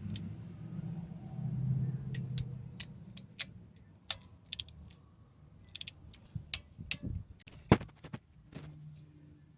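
Metal parts and hand tools clinking and tapping as they are handled, with about a dozen sharp clicks and one louder knock near the end. A low rumble runs through the first few seconds, then fades.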